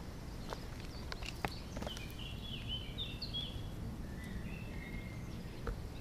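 Songbirds chirping in woodland: short high calls, busiest from about two seconds in, over a steady low outdoor rumble, with a few faint clicks.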